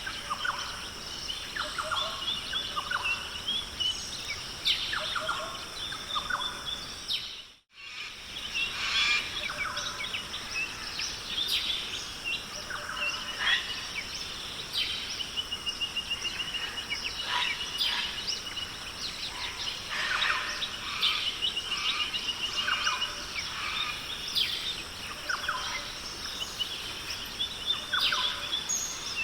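Many birds calling and chirping, with short chirps and a long rapid trill in the middle, over a steady high background hum. The sound cuts out briefly about eight seconds in.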